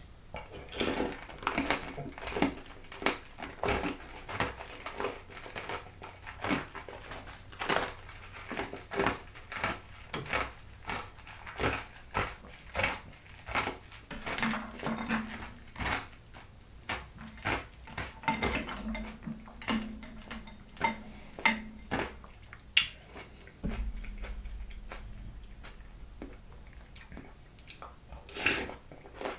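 A spoon clinking and scraping in a bowl of berries, grapes, coconut water and ice, with sharp irregular clinks about one or two a second.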